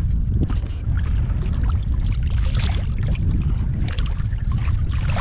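Steady low wind noise on the microphone, with small waves slapping and splashing irregularly against the hull of a small boat.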